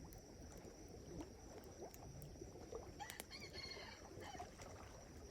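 Campfire crackling faintly with scattered sharp pops, over a steady thin high tone. A faint bird call of about a second comes in about three seconds in.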